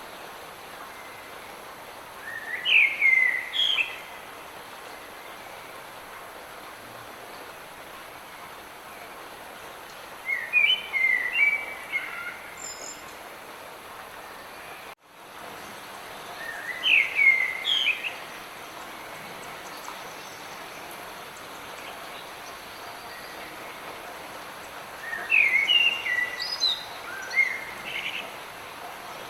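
Light rain hissing steadily, with a songbird singing four short phrases of quick whistled notes, one roughly every seven seconds. The sound cuts out for an instant about halfway through.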